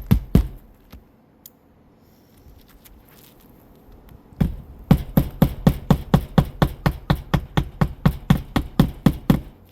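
Hammer driving a roofing nail through a shingle: a few blows at the start, then a fast, even run of about twenty strikes, roughly five a second, from about halfway through to the end.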